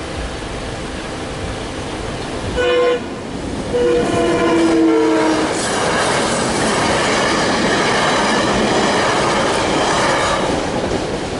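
SEPTA electric commuter train sounding its horn for the grade crossing: a short blast about two and a half seconds in, then a longer one a second later. The train then passes over the crossing, a loud steady rush of wheels on rail lasting about five seconds and easing near the end.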